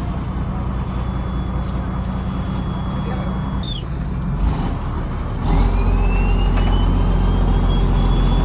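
Fishing trawler's diesel engine running steadily. About five and a half seconds in, it revs up and runs louder, with a whine that rises in pitch and then holds.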